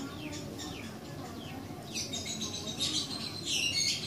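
Small birds chirping: a quick series of short, falling high-pitched chirps, busiest in the last two seconds.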